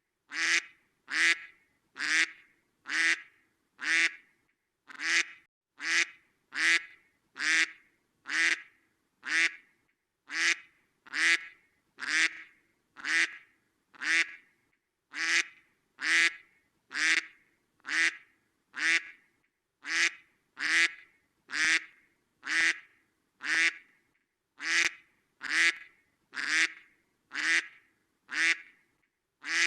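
A duck quacking, one short quack at a time repeated at an even pace of about one per second, each quack sounding the same.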